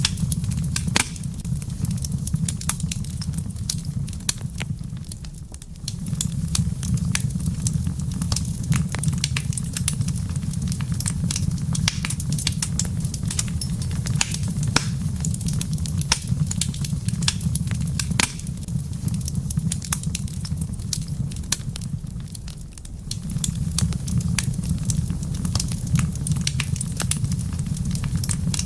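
Wood fire crackling, with many sharp irregular pops over a steady low rumble. The rumble drops away briefly twice, about five seconds in and again a few seconds before the end.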